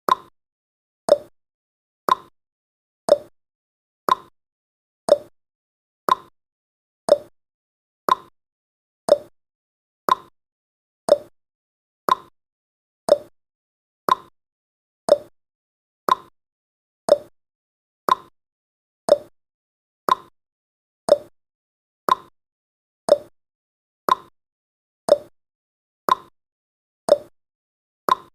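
Countdown timer's clock-tick sound effect, one short sharp tick a second, counting down the last seconds before the alarm.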